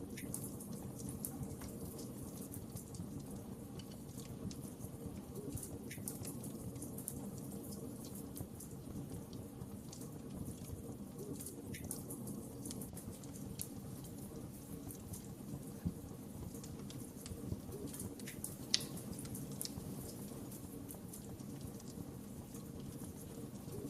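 Wood fire crackling steadily in a fireplace, with scattered small snaps and a couple of louder pops.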